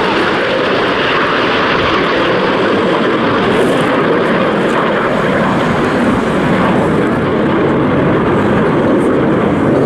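Red Arrows BAE Hawk jet trainers flying a display, a loud, steady jet engine noise with no clear rise or fall.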